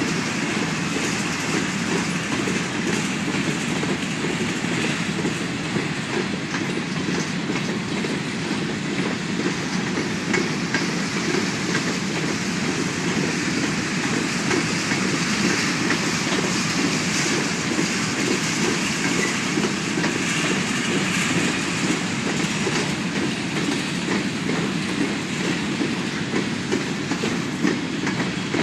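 Norfolk Southern freight train's empty grain cars rolling past, a steady noise of steel wheels on rail with scattered light clicks.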